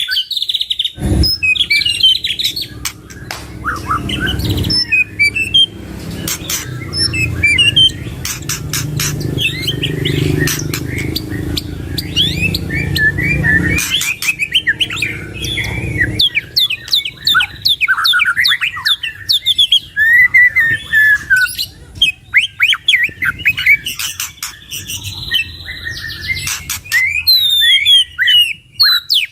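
Two white-rumped shamas singing loudly, a dense run of rapid chirps, trills and whistled rising and falling notes full of varied fill-in phrases. A low rumble lies under the song through the first half.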